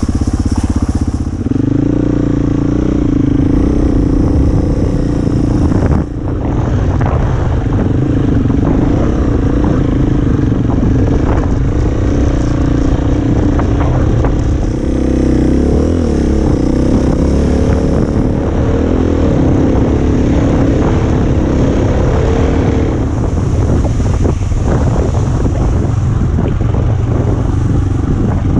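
KTM dirt bike engine running while riding, its pitch rising and falling with the throttle, with a brief drop about six seconds in.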